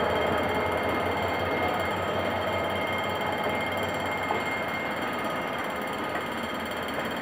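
Passenger train coaches rolling past over the rails, a steady rumble of wheels on track that slowly fades as the train pulls away. A level-crossing warning bell rings steadily over it.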